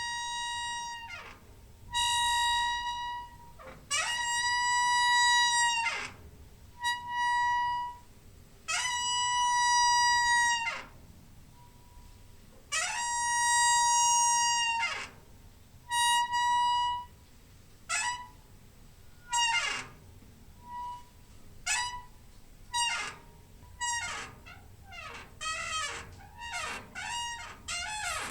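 Squeaky door hinge squealing over and over as the door is swung, each squeak a steady high-pitched note held for half a second to two seconds. The squeaks get shorter and come faster near the end.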